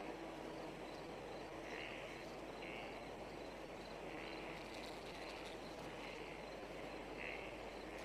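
Faint insects chirping: short buzzy chirps repeating every second or so at uneven gaps, over a low steady hiss.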